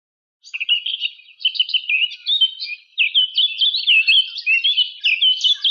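Songbirds chirping in a rapid, continuous string of short high chirps, starting about half a second in.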